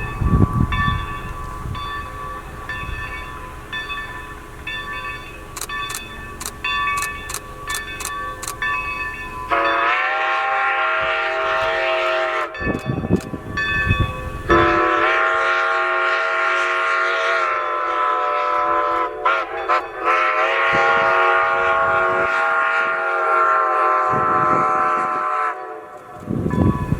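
Whistle of Strasburg Rail Road No. 90, a 2-10-0 Decapod steam locomotive, blowing two long blasts: one of about three seconds, then after a short break a much longer blast of about ten seconds that wavers briefly partway through. Before the whistle there are about ten seconds of quieter, steady train noise.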